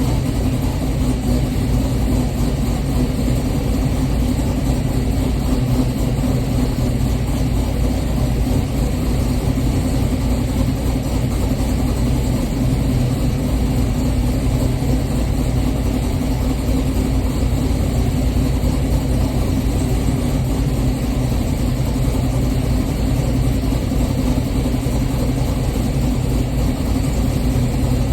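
An LS-swapped 6.0-litre V8 in a G-body Oldsmobile Cutlass idling steadily, warming up after a cold start. The engine note holds even, with no revving.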